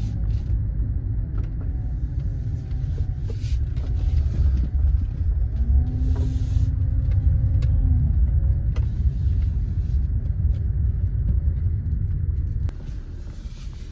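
Car driving, with a steady low road and engine rumble heard from inside the cabin.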